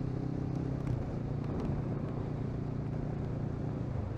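Kawasaki Versys 650's parallel-twin engine running steadily on the move, with wind rush, heard from the bike.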